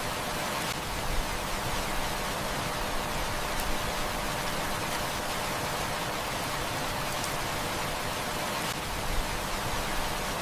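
Heavy rain falling steadily, an even rushing patter, with a few brief sharper ticks about a second in and near the end.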